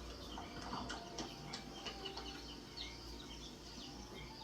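Many short, high chirping animal calls, several sweeping downward, scattered over a low steady hum, from a nature documentary's soundtrack.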